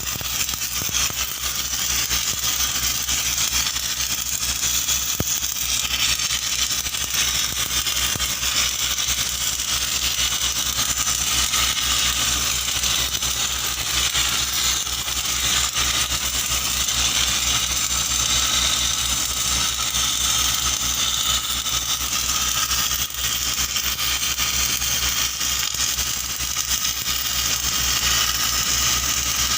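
Arc welding on pipe: the arc's steady crackling sizzle, with an engine's steady low hum running underneath.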